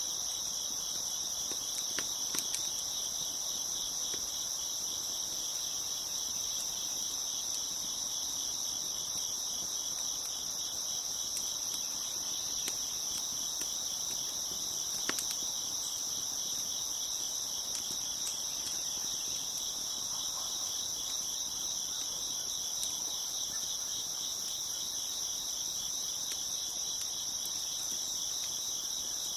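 Crickets chirping in a steady, dense chorus, with a few sharp pops from a crackling wood fire about two seconds in and again midway.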